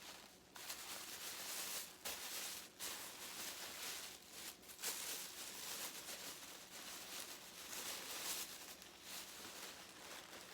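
Rustling of gift packaging being handled and unwrapped, an uneven, hissy rustle that comes and goes in short spells.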